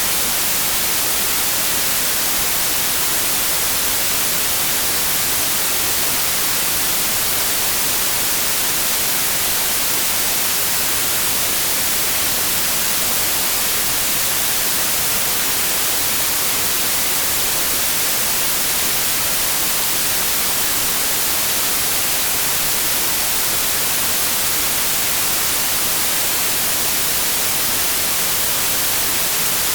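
Steady, unbroken white noise: an even hiss, strongest in the high treble, with no change in level or pitch.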